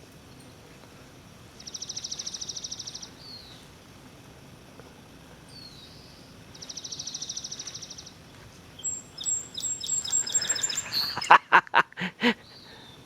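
A small songbird singing a rapid, even, high trill twice, about five seconds apart, over a faint background hiss. Near the end come a quick run of high clicks and a few loud knocks.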